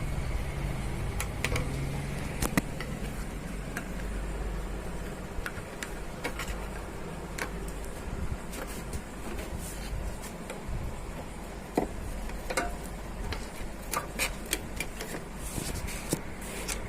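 Steady low electrical hum with scattered small clicks and taps, more frequent in the second half, from handling parts and tools at a workbench.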